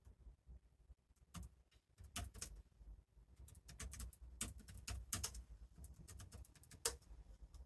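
Faint, irregular typing on a computer keyboard: clusters of light key clicks, several a second, starting about a second and a half in.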